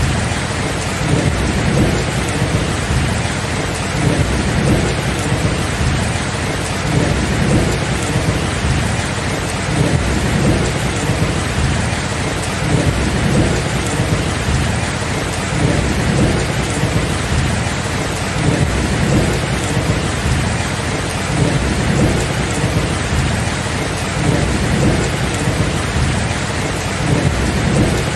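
Steady heavy rain with continuous rolling thunder, its low rumble swelling and easing every couple of seconds.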